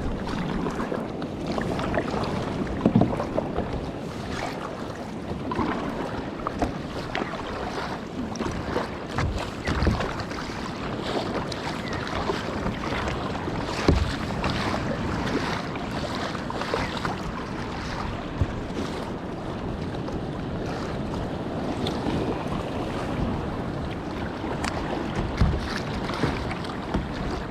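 Kayak paddling at sea: paddle blades splashing and water sloshing around the hull, in irregular strokes, over steady wind on the microphone.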